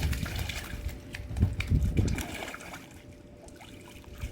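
Water sloshing and splashing around a dog in a small pool, busier for about the first two seconds, then quieter.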